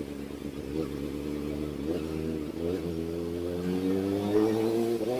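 Kawasaki ZX-4RR's inline-four engine through an SC Project exhaust while riding: the pitch dips and recovers a few times in the first three seconds, then the revs climb steadily and grow louder, with a quick drop and recovery near the end.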